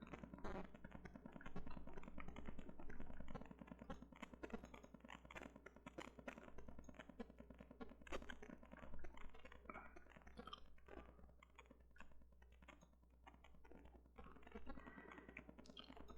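Faint, irregular clicking of a computer mouse and keyboard, with a steady low hum underneath.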